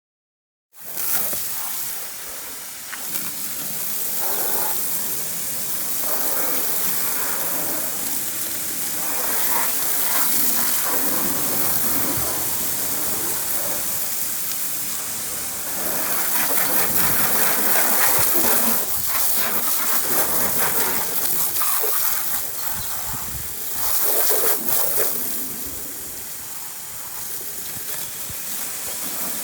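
A car-cleaning tool blowing a steady hissing jet of steam, air or water spray, starting about a second in and swelling and easing in strength, with a faint steady whine from its machine underneath.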